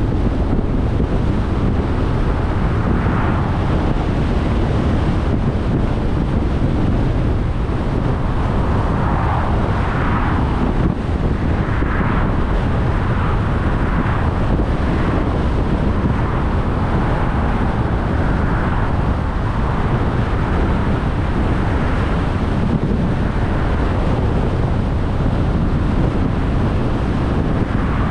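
Steady road and wind noise of a car driving, with a heavy low rumble and wind buffeting the microphone; the hiss swells and fades a few times around the middle.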